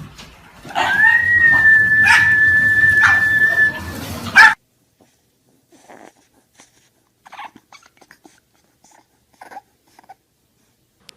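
A dog gives one long, high whine that rises at first and is then held steady for about three seconds. It cuts off suddenly, and only a few faint short sounds follow.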